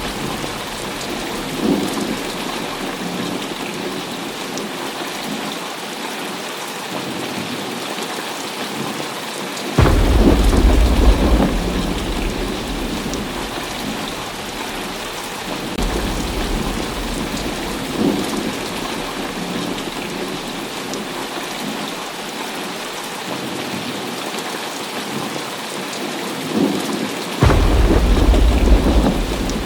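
Heavy rain falling steadily, with thunder rolling in twice: a sudden deep rumble about ten seconds in that fades over several seconds, and another near the end.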